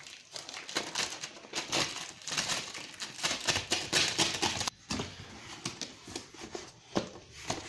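Packaging being handled while a speaker set is unboxed: irregular rustling and crinkling with many small clicks and crackles, pausing briefly a little before the five-second mark.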